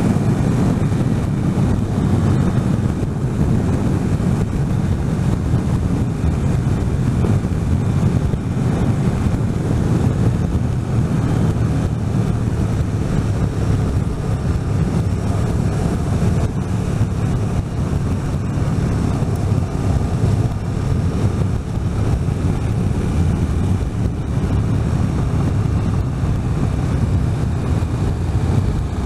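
Motorcycle riding at a steady speed: an even engine drone under heavy wind noise on the microphone.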